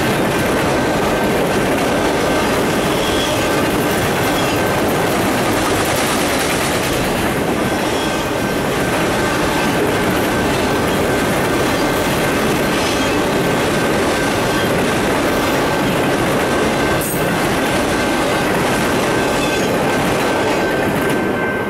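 Autorack freight cars of a long freight train rolling across a steel girder bridge: a steady, loud rumble and clatter of steel wheels on the rails.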